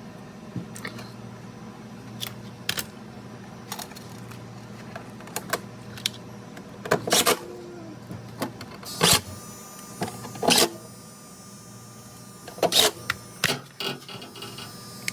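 Scattered clicks and knocks with several louder scraping, rustling noises as refrigerator parts are handled during a repair, over a steady low hum.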